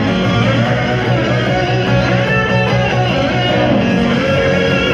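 Live blues-rock band playing an instrumental guitar passage over a steady bass line, the lead guitar's notes gliding in pitch.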